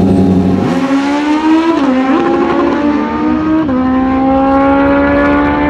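Naturally aspirated stock sportbike drag racing motorcycle held at steady high revs, then launching under a second in and accelerating hard, the engine pitch climbing and dropping sharply at each upshift, at about two seconds and again near four seconds.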